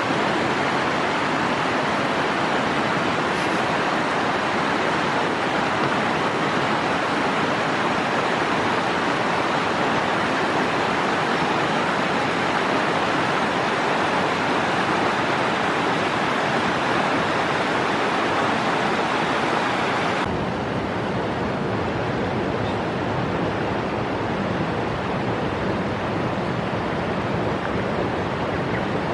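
Steady rush of a fast-flowing river. About two-thirds of the way through it changes abruptly to a duller, deeper rush.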